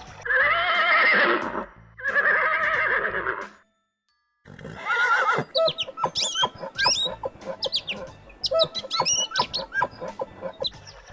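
Two long, loud, wavering animal calls. After a brief silence comes another call, then a quick run of short, high chirping calls that sweep up and down in pitch.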